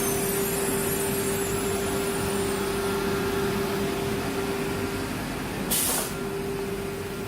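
CNC router spindle running with a steady hum over machine noise, as the router works wood. About six seconds in there is a short, sharp hiss of compressed air.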